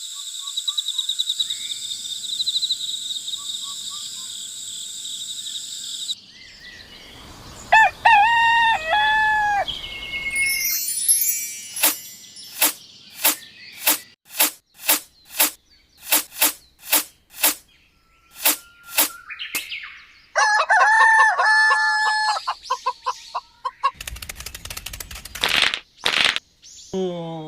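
A steady high-pitched insect-like drone, then a rooster crowing, a long run of sharp, evenly spaced chirps, and chicken clucking.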